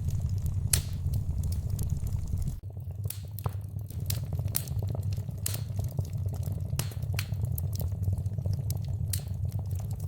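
Fireplace fire crackling, with frequent sharp pops and snaps over a steady low rumble of the flames. The rumble dips briefly about two and a half seconds in.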